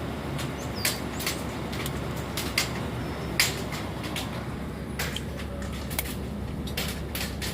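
Small hard tree fruits dropped by birds striking a car's body, about a dozen sharp, irregular clicks, the loudest about three and a half seconds in, over the low steady running of the car's engine.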